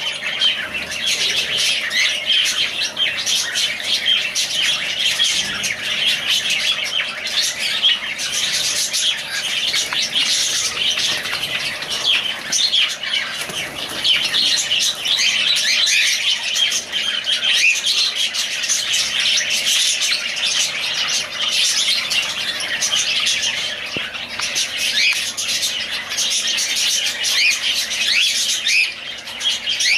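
Many small caged pet parrots, kept as "love birds", chirping and chattering together without a break, their calls overlapping densely.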